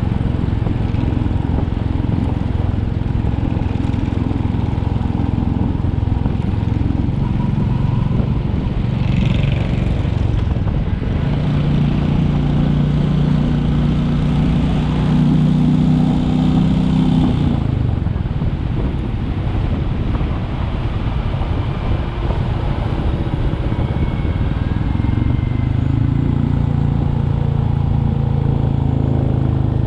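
Royal Enfield Classic 350 single-cylinder engine running under way. The engine note gets stronger about a third of the way in, drops back a little past halfway, then picks up again near the end.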